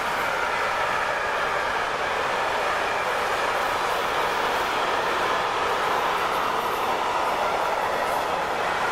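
Container flat wagons of a freight train rolling past at speed: a steady rush of wheels on rail.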